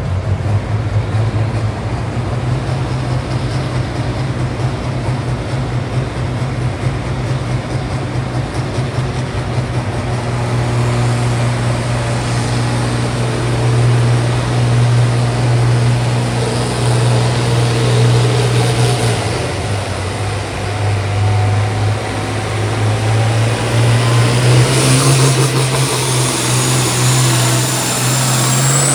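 Pulling tractor's engine running steadily at high revs, its pitch dipping briefly about two-thirds of the way through and then coming back up. A rising high whine joins it near the end.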